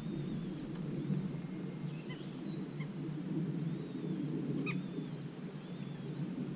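Small birds giving short, thin, high wavering calls, scattered several times, over a steady low background noise, with one sharp tick about two-thirds of the way through.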